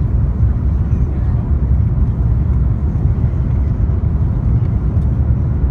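Steady low rumble of engine and airflow noise inside the cabin of an Airbus A350-900 in flight, its Rolls-Royce Trent XWB engines running evenly.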